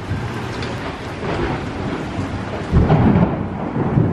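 Heavy rain pouring down, with a low rumble of thunder swelling about three seconds in.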